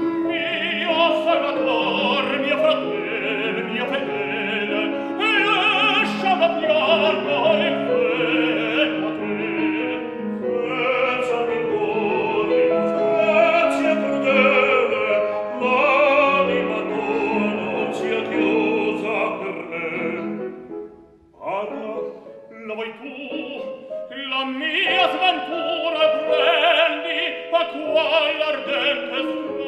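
Operatic singing in classical style, with a sustained vibrato voice, breaking off briefly about two-thirds of the way through and then resuming.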